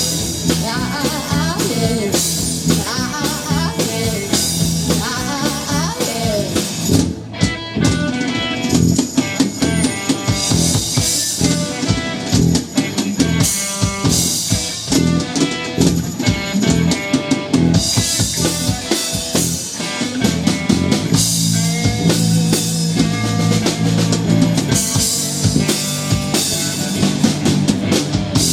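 A live band playing an instrumental break, led by the drum kit with bass drum and snare hits over steady bass notes. A wavering melody line runs through the first few seconds.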